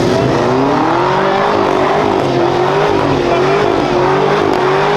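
Car engine revving up and held at high revs, its pitch wavering slightly.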